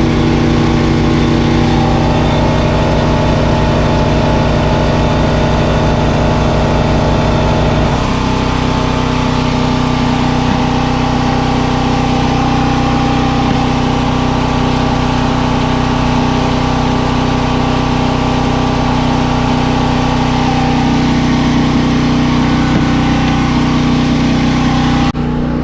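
An engine running steadily and loudly, its tone changing about eight seconds in and then holding steady.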